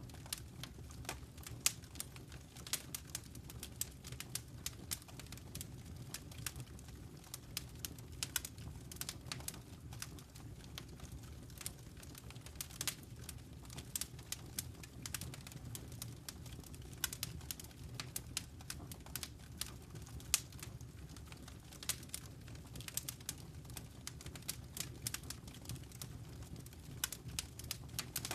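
Wood fire crackling in a fireplace: irregular sharp pops and snaps over a steady low rumble from the flames.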